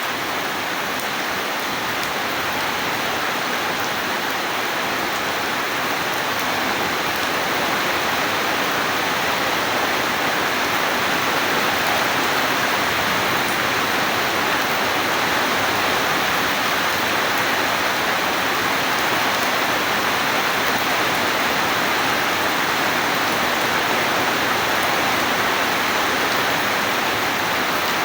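Steady rain falling, a dense, even hiss without distinct drops or thunder, growing slightly louder about a third of the way in.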